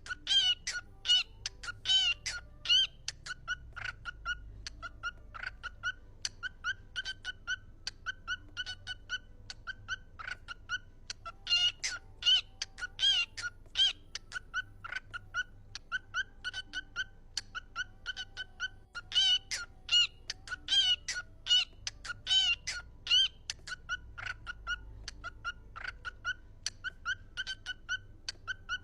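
Parrot vocalizing a steady string of short, repeated pitched calls, several a second, with louder clusters here and there.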